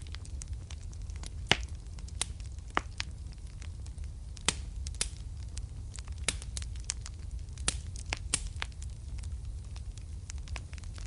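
Wood fire burning in a fireplace, with sharp irregular crackles and pops over a low steady rumble of the flames. The loudest pops come at about one and a half, four and a half and eight seconds in.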